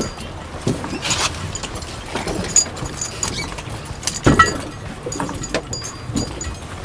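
Scattered metallic clinks and knocks of scuba gear being handled, over a steady low boat-engine hum.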